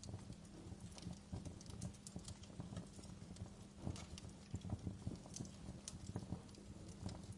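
Wood fire crackling in a fireplace: irregular snaps and pops over a low, steady rumble of burning.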